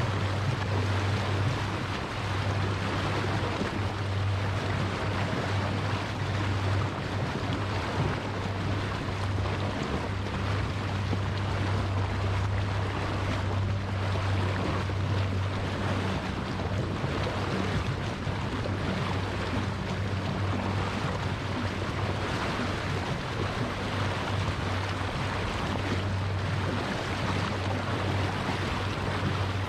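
A glass-bottom boat's engine running steadily with a low, even hum, under a constant rush of water and wind noise.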